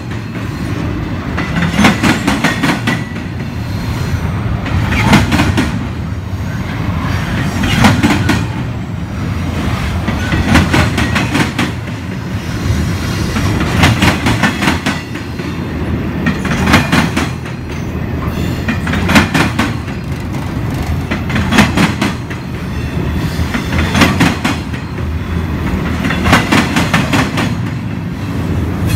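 Double-stack intermodal freight train of container well cars rolling past: a steady rumble of steel wheels on rail, with clusters of clacks over the rail joints about every three seconds as each car's wheel sets go by.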